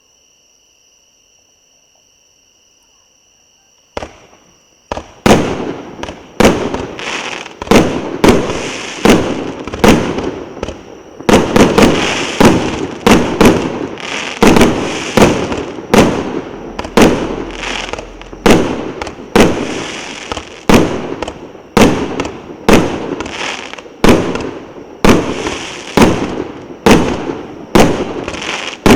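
A 1.2-inch, 220-shot fireworks battery (cake) firing. After a quiet first four seconds, it sets off a steady rapid series of shots and aerial bursts, about one and a half a second, each ringing on into the next.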